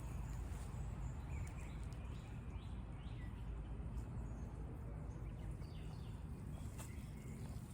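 Steady low outdoor background rumble with a few faint, short bird chirps, most of them in the first half.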